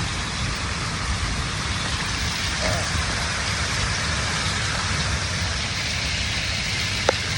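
Small waterfall splashing steadily, heard up close.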